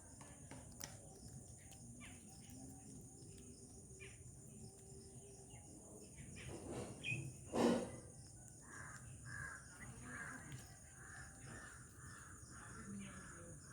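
Birds calling: one loud harsh call a little past the middle, then a run of short repeated notes, about two a second, over a steady high-pitched hiss.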